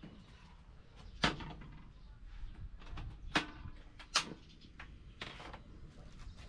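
Kitchen clatter: three sharp knocks of hard cookware or utensils, with a softer one near the end.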